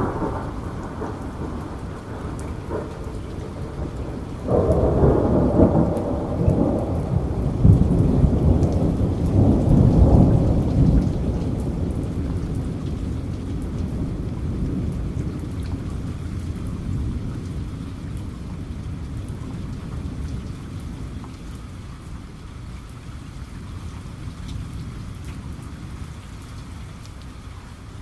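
Steady heavy rain with a roll of thunder breaking about four and a half seconds in: a loud, deep rumble that swells for several seconds, then slowly dies away under the rain.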